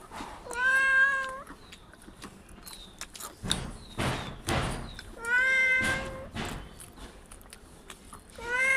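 A domestic cat meowing three times, each meow about a second long and held at a steady pitch.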